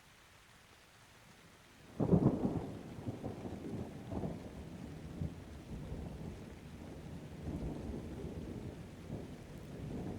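Steady light rain, then a thunderclap breaks in about two seconds in. It rolls into a long low rumble with several smaller swells that slowly dies down.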